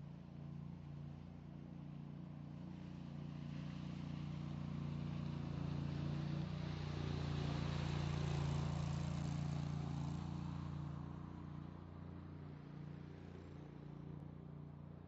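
Concrete power trowel ("helicopter") running steadily, a low engine hum with a hiss that grows louder through the middle and fades again.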